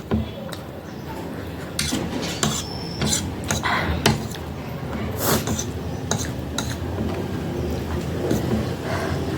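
Cutlery clinking and scraping against a plate, with scattered short clicks, as instant noodles are stirred to mix in the spicy seasoning.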